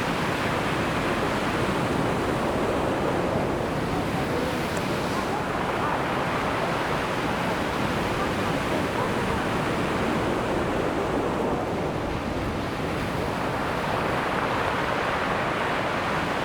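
Ocean surf breaking and washing on a beach: a continuous rush of waves that swells and eases, with no single crash standing out.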